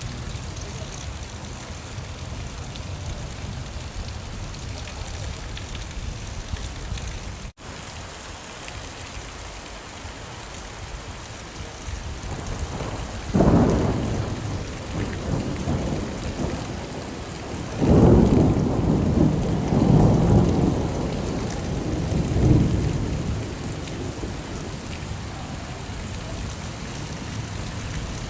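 Steady rain falling, with a split-second dropout in the sound about a quarter of the way in. Past the middle, rolls of thunder rumble in, one at first and then a longer roll of several peaks that fades back to the rain.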